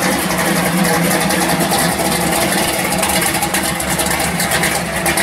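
A 1966 Chevelle pro street car's supercharged engine running at a steady, lumpy low idle with an even pulse as the car creeps slowly past.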